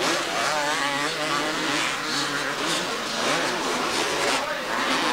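Several 250cc two-stroke motocross bikes racing, their engines revving up and down over one another in overlapping rising and falling whines.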